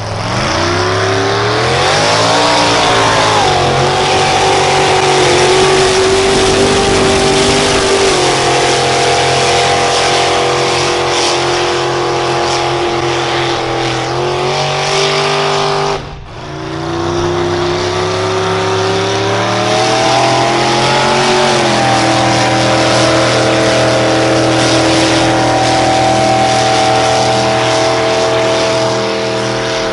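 Engine of a pulling tractor or truck working hard under load: the revs climb over the first few seconds, then hold high and steady. About halfway through the sound cuts off abruptly, then the revs climb again and hold high.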